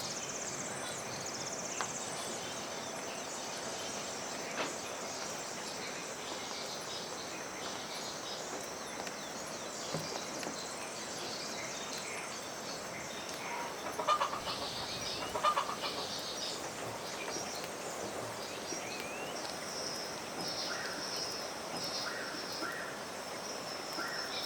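Farmyard ambience: a steady high insect drone with scattered small bird chirps, and a domestic fowl calling twice about fourteen and fifteen seconds in.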